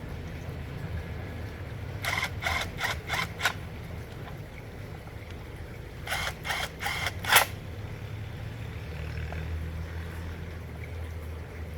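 Hand tools clicking and tapping on the chainsaw during repair work: a quick run of five sharp clicks, then a run of four a few seconds later, over a steady low hum.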